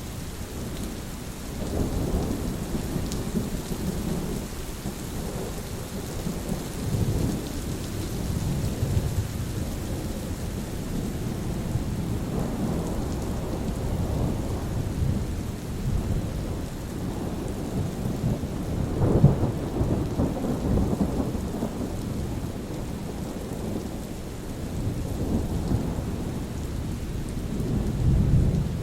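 Steady rain with thunder rumbling again and again in low swells, the loudest peal about two-thirds of the way through.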